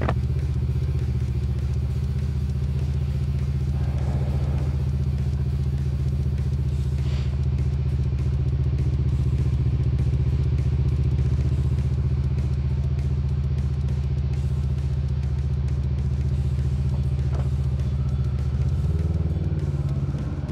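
Suzuki V-Strom 650 XT's V-twin engine running at a steady speed under way, one even drone with the pitch holding constant, changing a little near the end.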